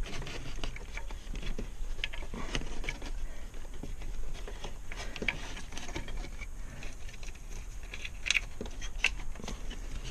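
Irregular light clicks, taps and rustles of parts being handled during car interior reassembly, with two sharper clicks near the end.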